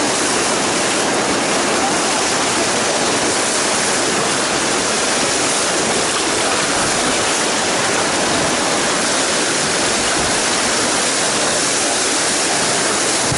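Colorado River water rushing past a raft in a steady, loud, even wash.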